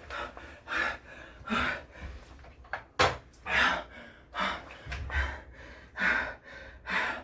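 A man breathing hard and grunting as he strains through pull-ups near exhaustion, about ten heavy breaths at a steady pace. A sharp knock sounds about three seconds in.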